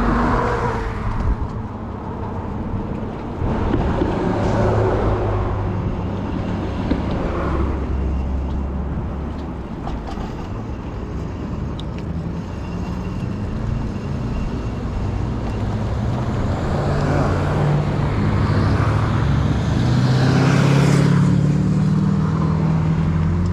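Wind and tyre noise from a fat-tire e-bike in motion, with a low hum that rises in pitch and grows louder near the end.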